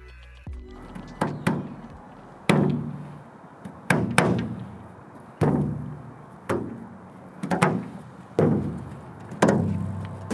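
A series of sharp percussive hits, about a dozen in an uneven rhythm, some in quick pairs, each leaving a short ringing decay.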